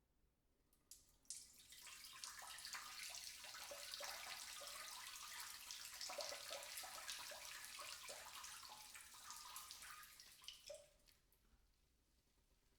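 A person urinating, the stream splashing into water. It begins with a couple of short spurts, runs steadily for about nine seconds, then ends with a few last spurts and stops.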